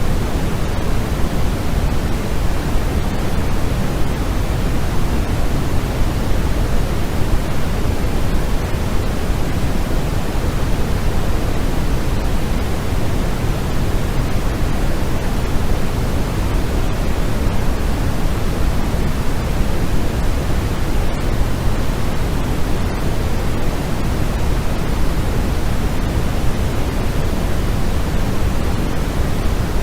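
Steady artificial sleep noise: a constant, even rush with no changes, its low end heavier than its highs.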